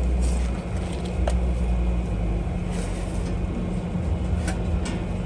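Steady low mechanical rumble with a few short, light clicks of metal on metal.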